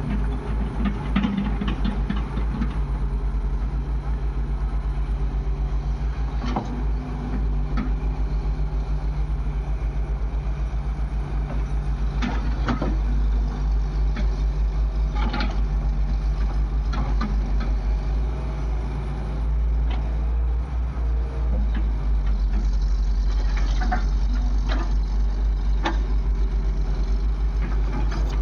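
Heavy diesel machinery engine running steadily with an even low throb, with a few sharp knocks over it.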